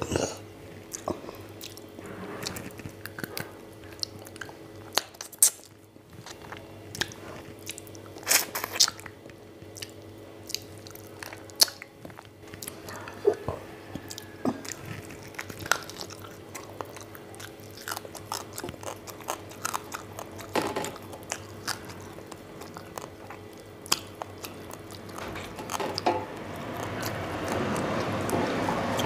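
Close-up eating sounds: chewing and biting, with wet mouth clicks and occasional crunches, over a faint steady hum. Near the end a rumbling noise swells steadily louder.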